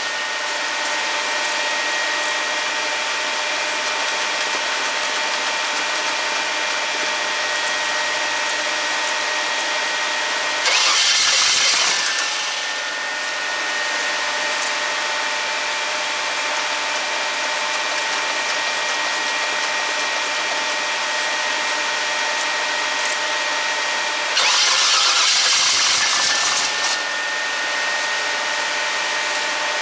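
350 V8 in an S10 pickup running at a cold idle, a bit rough because it is not yet fully tuned, with a steady whine over the engine note. Twice, about ten seconds in and again near twenty-five seconds, it gets briefly louder for a second or two.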